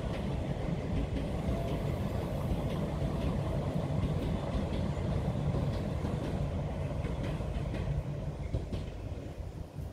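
Express passenger train's coaches rolling over a stone arch viaduct: a steady low rumble of wheels on rail with faint clicks, fading from about eight seconds in as the tail of the train moves away.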